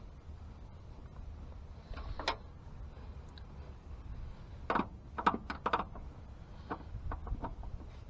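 Light clicks and knocks of parts and wiring being handled during an ignition-box install: one about two seconds in, a quick cluster around five seconds, and a few lighter ones near the end. Under them is a steady low rumble of wind on the microphone.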